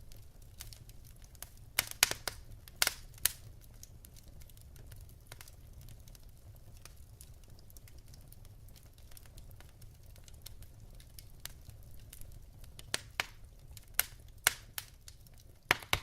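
Wood fire burning in a fireplace, crackling with irregular sharp pops over a low steady rumble; the pops bunch up about two seconds in and again near the end.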